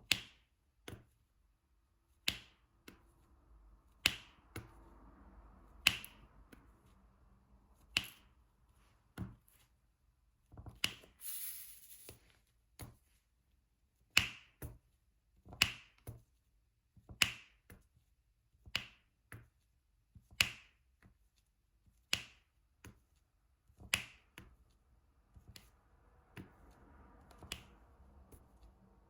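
Diamond painting drill pen pressing resin drills onto the sticky canvas: sharp clicks, one about every one and a half to two seconds. A brief hissing rustle comes about a third of the way through.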